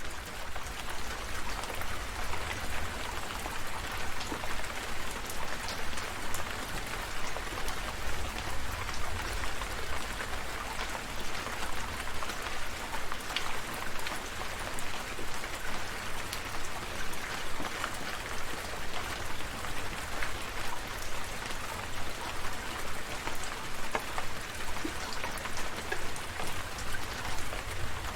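Steady rain falling, a continuous hiss with many separate drops ticking on a surface and a low rumble underneath.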